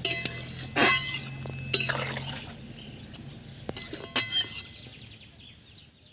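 Metal dishes and utensils clinking and knocking together: about five sharp strikes, each with a brief ring, the loudest in the first two seconds.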